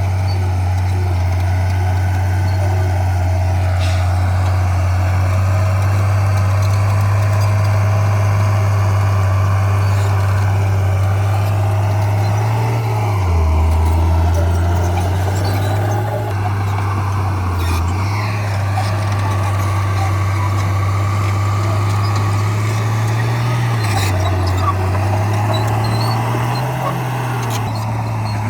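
Heavy diesel earthmoving machinery working, its engine running loud and steady with the pitch dropping under load about halfway through and briefly again later, then rising near the end. A few sharp metallic knocks stand out over it.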